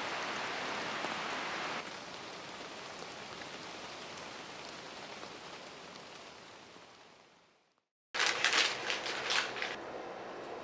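Steady rain pattering, louder for the first couple of seconds, then fading out. After a moment of silence, a second and a half of loud crackling clicks, then a low steady hiss.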